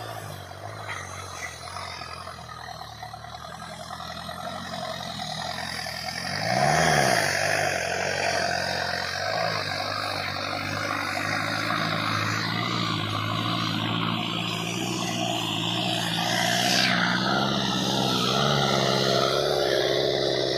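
Sonalika DI 60 tractor's diesel engine running steadily. It is revved briefly up and back down about six or seven seconds in, then runs louder.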